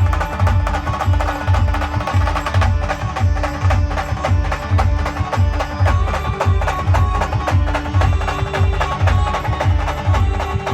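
Maharashtrian band playing a dance song: a heavy, steady drum beat with percussion clicks under a held melody line.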